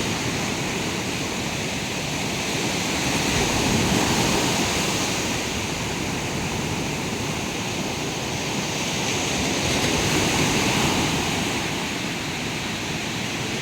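Sea waves washing onto a beach: a steady rush of surf that swells louder twice, about four seconds in and again near ten seconds.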